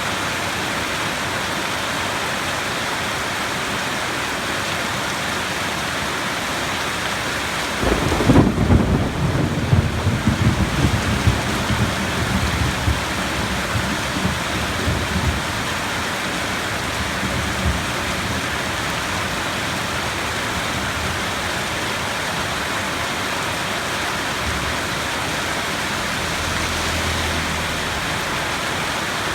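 Steady heavy rain with a clap of thunder about eight seconds in, a sudden crack that rolls into low rumbling and fades away over several seconds, with a faint distant rumble again near the end.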